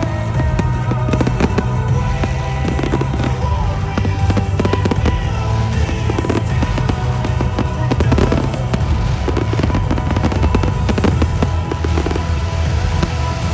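Fireworks bursting and crackling in quick succession, with music over the display's sound system.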